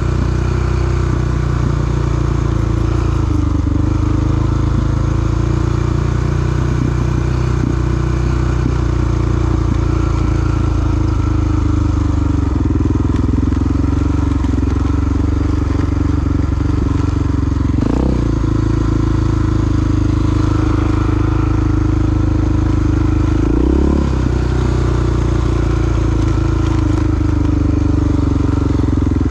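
Large single-cylinder four-stroke dual-sport motorcycle running steadily under way, its engine note rising and falling gently with the throttle. There are two brief thumps, about 18 and 24 seconds in.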